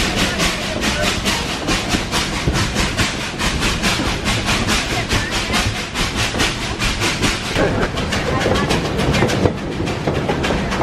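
Heritage passenger train running along the track: a steady rumble and hiss with a fast, even rhythm of about five beats a second. The rumble grows heavier about three-quarters of the way through.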